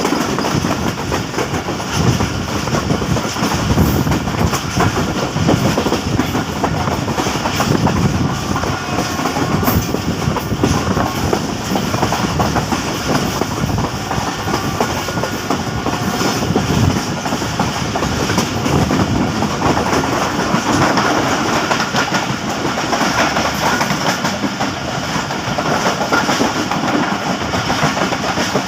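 Passenger train coaches rolling past on the track, the wheels clattering steadily over the rail joints.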